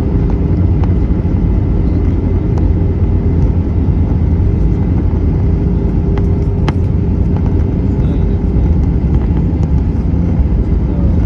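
Airbus A319 cabin noise: a loud, steady rumble of the engines and airflow, with a steady hum that fades out about three quarters of the way through and a single sharp click about seven seconds in.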